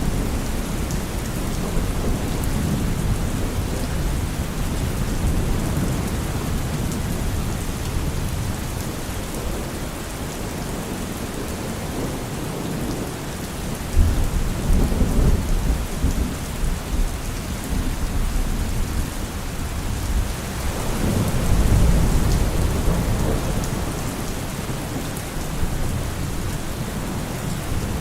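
Steady rain falling on trees and leaves, with low thunder rumbling twice: one roll starting suddenly about halfway through, another a few seconds later.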